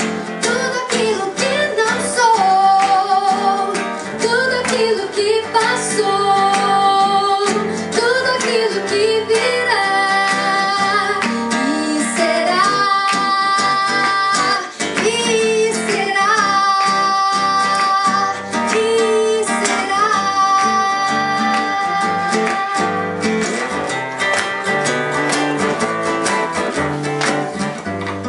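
Live song: a woman singing held, wavering notes to acoustic guitar accompaniment, with the guitar strumming more densely near the end.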